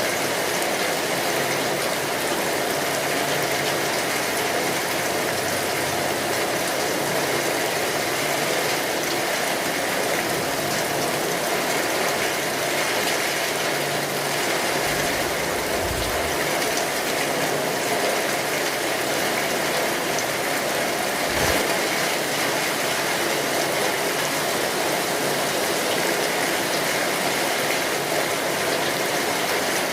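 Steady rainfall, a dense even patter. Two brief low thuds come about halfway through, one after the other.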